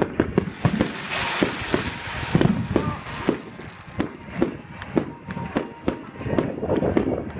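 Fireworks going off in a rapid, irregular string of bangs and crackles, with a stretch of hissing about a second in.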